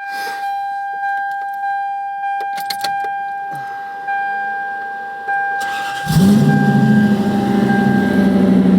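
A steady electronic warning tone sounds while keys click and rattle in the ignition. About six seconds in, the starter cranks briefly and the 1992 Lexus SC400's 4.0-litre V8 fires through a straight-piped single exhaust, its pitch dropping as it settles into a loud idle.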